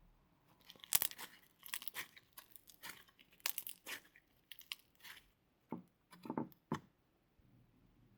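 Slime with clay mixed into it being worked by hand, giving a run of irregular crackling pops that stop shortly before the end.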